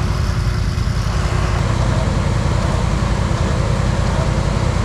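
ATV engine running with a steady, fast-pulsing low rumble, over a constant rushing noise.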